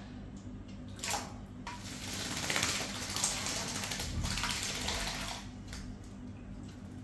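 Hill myna splashing as it bathes in a container of water: a brief splash about a second in, then a longer spell of splashing from about two seconds in that dies down after about five seconds.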